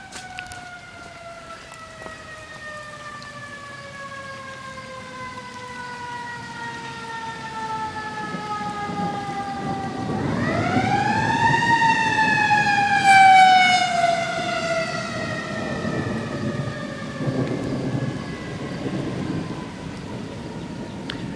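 A mechanical warning siren slowly winding down in pitch. About ten seconds in it winds quickly back up and then coasts down again. Thunder rumbles under it from the middle on, loudest a few seconds after the siren winds up, with rain hiss throughout.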